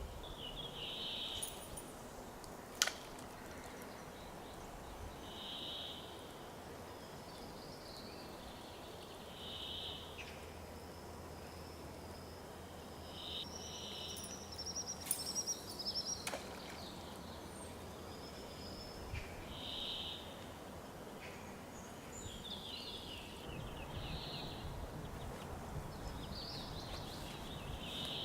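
Songbirds singing: one bird repeats a short high phrase every few seconds while others trill higher up. A single sharp click comes a little under three seconds in.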